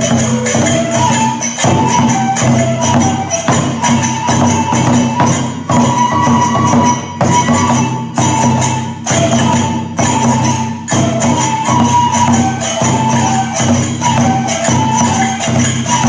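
Iwate kagura music: a bamboo flute playing a stepping melody over fast, continuous strokes of drum and jangling hand cymbals.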